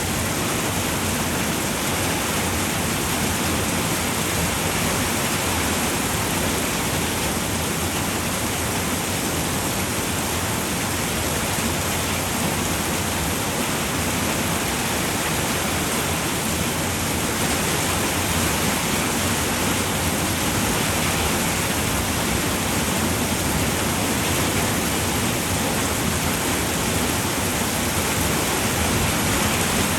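Steady rain falling on a roof, an even hiss with no breaks or distinct drops.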